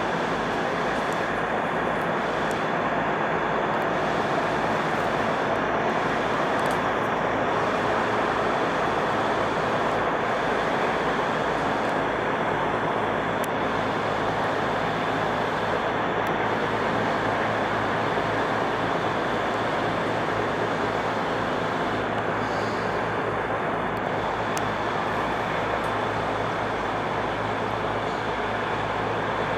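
Steady road-traffic noise, a continuous even rumble of vehicles passing with no single event standing out.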